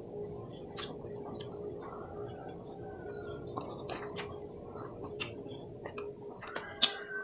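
Close mouth sounds of chewing and sucking the sweet pulp off raw cacao seeds, with sharp clicks of a metal fork against the cacao pod, the loudest near the end. A steady faint hum runs underneath.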